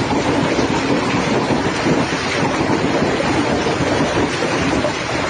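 Heavy rain pouring down in a steady, loud rush, with wind buffeting the microphone.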